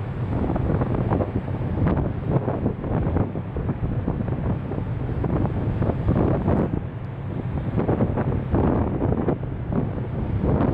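Wind buffeting the camera's microphone in uneven gusts, over a steady low hum.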